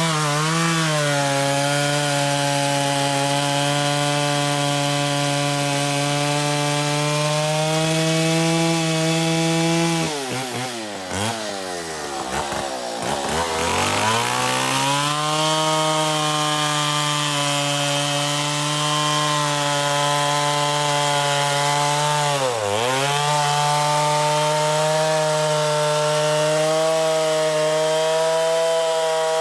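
Modified Stihl Contra Lightning chainsaw, its two-stroke engine bored out to 137 cc, running steadily at high revs. About a third of the way in the engine note sags deeply and climbs back over several seconds, and it dips briefly again about two-thirds of the way through.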